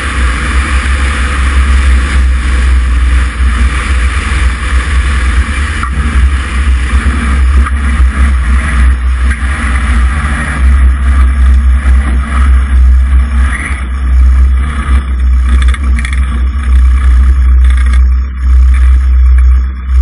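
Cessna 140's light-aircraft piston engine and propeller running steadily, a loud, even low rumble with a hiss above it.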